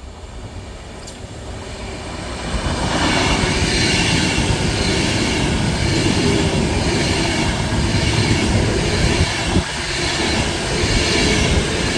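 Class 390 Pendolino electric train passing through at speed: the wheel-on-rail noise builds about two seconds in and stays loud.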